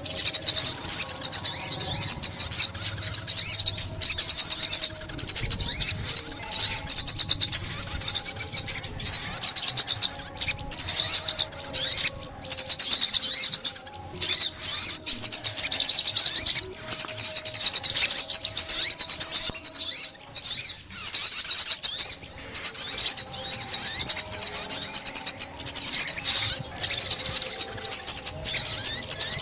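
Olive-backed sunbird song: rapid, high-pitched twittering chirps in long runs, broken by brief pauses.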